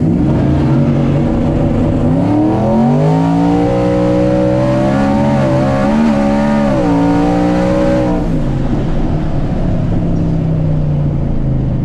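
Twin-turbo 5.0 Coyote V8 in an F-150 drag truck under hard throttle: engine speed climbs for a couple of seconds, holds high with a couple of brief dips, then drops back to a steady low drone about eight seconds in.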